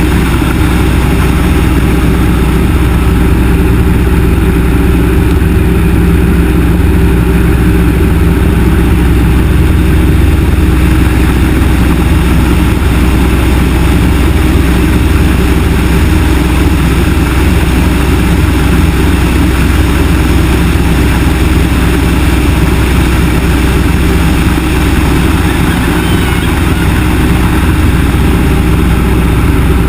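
Yak-18T's nine-cylinder radial engine running loud and steady, with no change in pitch.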